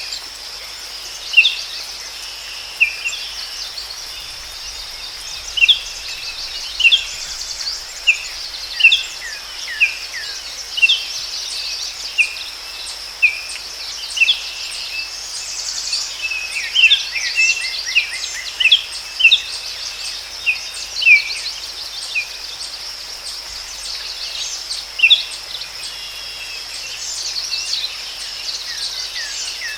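Forest ambience: many short, sharp bird chirps, often falling in pitch, repeating every second or so over a steady, high insect drone.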